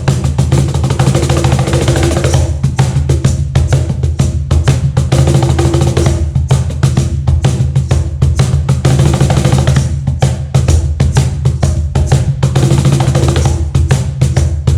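Meinl cajon played by hand in a fast, continuous groove: deep bass strokes mixed with dense, sharp slap strokes on the front plate.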